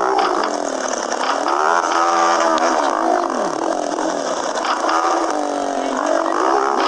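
Motorcycle engine running while riding, its pitch rising and falling several times as it speeds up and slows, over a steady rush of wind and road noise.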